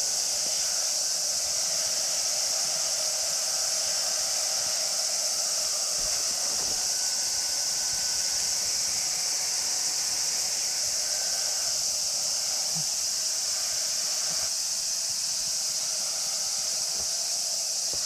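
Steady high-pitched insect chorus, typical of cicadas in a summer forest, holding at one level throughout, with a fainter lower drone beneath it.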